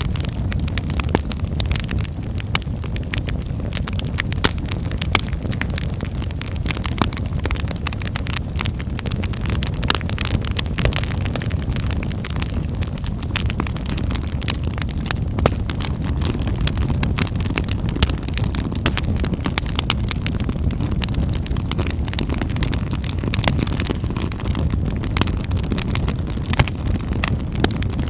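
Wood fire crackling in a fireplace: a dense, irregular patter of small sharp pops and snaps over a steady low rumble of the flames.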